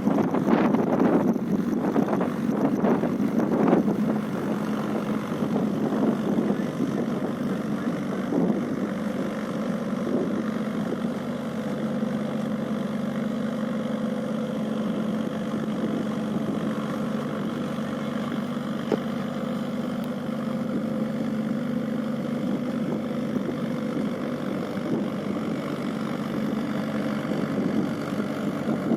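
Mahindra tractor's diesel engine idling steadily, louder and more uneven for the first four seconds.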